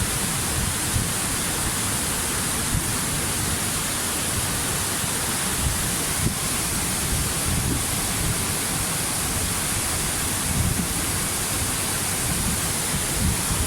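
Waterfall: a steady, even rush of falling water that does not let up.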